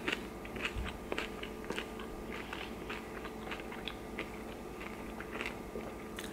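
Chewing a crunchy hard-shell beef taco, with irregular small crunches of the fried corn shell between the jaws.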